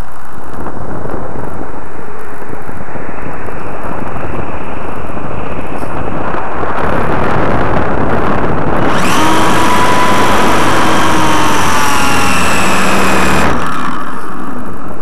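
Airflow rushing over the microphone of a camera carried on a GWS Slow Stick electric model plane in flight. About nine seconds in, the electric motor and propeller whine comes up over it, sags slowly in pitch for about four seconds, then cuts off sharply.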